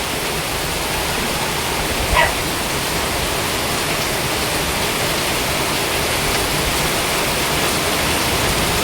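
Heavy rain and a flooding creek rushing, a steady, dense noise of water. About two seconds in, a dog gives a single short bark.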